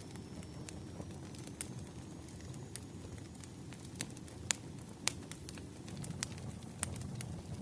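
Campfire burning with a steady low rush and irregular crackles and pops, two of them louder about four and a half and five seconds in.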